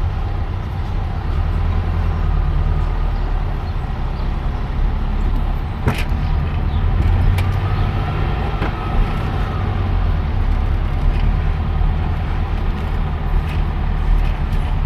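Steady low engine rumble of a car moving slowly in stop-and-go traffic, heard from inside the cabin. A few sharp clicks come about six to nine seconds in.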